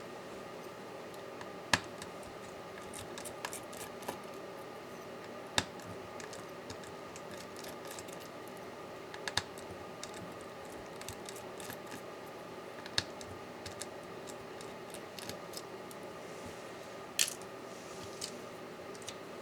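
Sharp clicks and light taps of small tools and laptop parts being handled during MacBook Pro disassembly, about five louder clicks a few seconds apart among fainter ticks, over a steady background hum.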